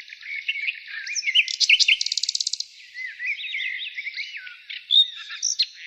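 Songbirds chirping and tweeting in a busy run of short whistled notes, with a fast trill about two seconds in and a sharp high note near the end.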